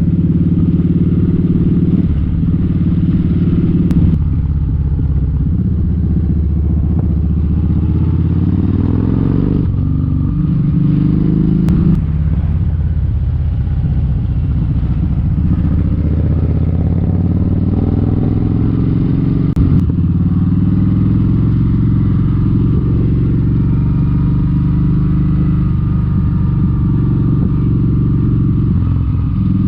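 Kawasaki Vulcan 1700 Vaquero's V-twin engine running steadily under way, heard from the rider's seat. Its pitch rises and drops several times as the bike changes speed.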